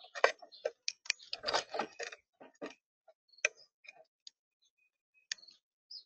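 Birds at a feeder: a quick, irregular scatter of sharp clicks and short scuffling noises, with a few brief high chirps.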